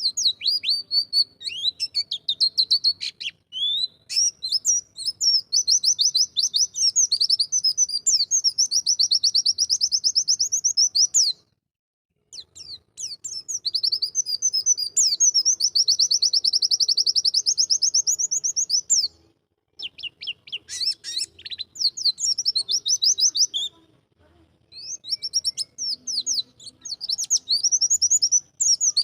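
White-eye (pleci) singing: long phrases of very rapid, high twittering notes, each lasting several seconds. The song breaks off briefly about eleven, nineteen and twenty-four seconds in.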